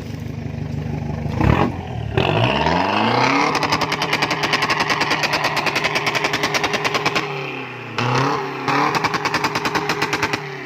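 Vehicle engine revved hard up to its rev limiter. The pitch climbs, then holds with a fast, even stutter as the limiter cuts in. It drops briefly, then is held against the limiter again before falling away near the end.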